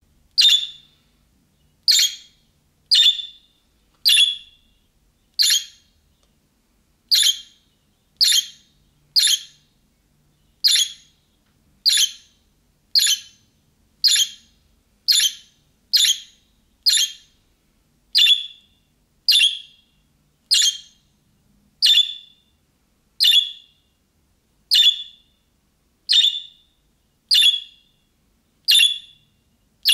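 A budgerigar gives a short, sharp call over and over, about once a second, with silence between the calls. It is a calling (contact) call of the kind that other budgies answer.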